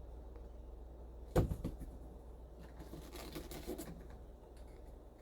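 A sharp knock about a second and a half in, then faint scraping and rattling: dash parts being handled while trim screws are taken out.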